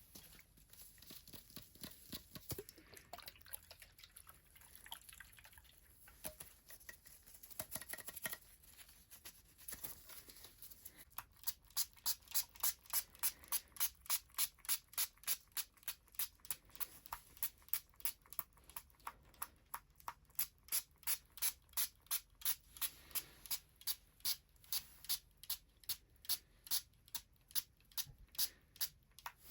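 Hands rubbing and stroking the skin of a person's feet in a massage: faint, irregular rustling at first, then a steady rhythm of soft, crisp strokes at about three a second, starting around a third of the way in.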